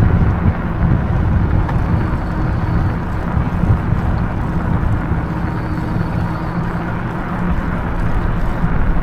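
Wind buffeting the microphone and road noise from a moving e-bike, a steady low rumble with a faint hum coming in about halfway through.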